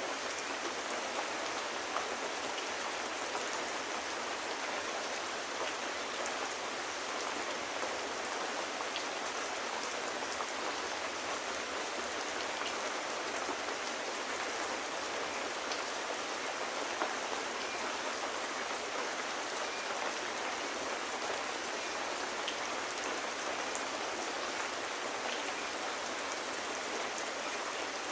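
Steady rain falling, an even hiss of drops on a surface, with a few faint scattered ticks.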